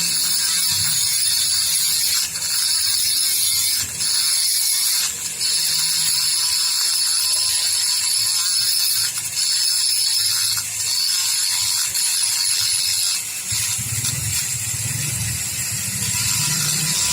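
A power tool runs with a high-pitched whine, in spells broken every second or two by brief dips.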